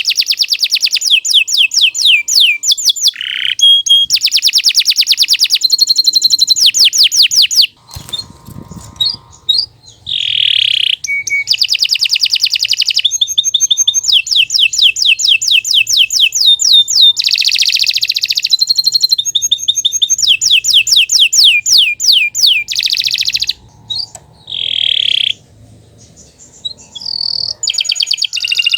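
Domestic canary singing a long song of fast trills and rolls, each a run of rapidly repeated high notes, broken by short pauses about eight seconds in and again near twenty-four seconds in.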